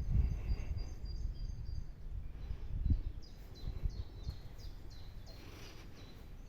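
A small bird singing a run of short, high, repeated chirps, most of them in the middle of the stretch, over a steady low rumble of outdoor noise that fades somewhat after the first few seconds.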